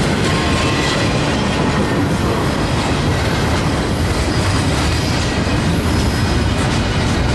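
Train rolling past, a loud, steady rumble with the clatter of wheels over the rails.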